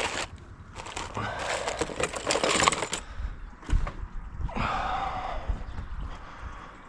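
Hand-work noise on a car in a workshop: scraping and rattling of parts being pulled and handled. It comes in two rough bursts, about a second in and again near the five-second mark, with a few sharp clicks.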